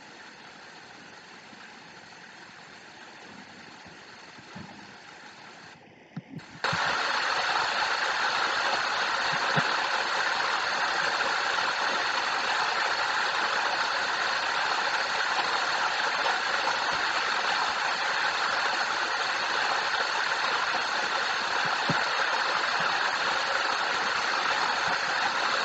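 Steady rush of a waterfall, faint for the first six seconds, then after a brief dropout much louder and even.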